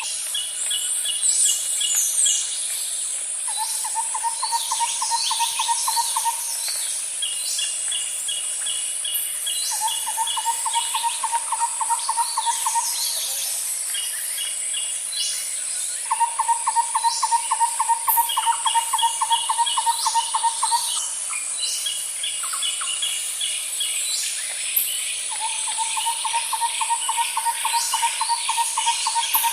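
Outdoor nature ambience: many birds chirping and calling over a steady high insect drone. A lower rapid trill comes and goes four times, each bout lasting a few seconds.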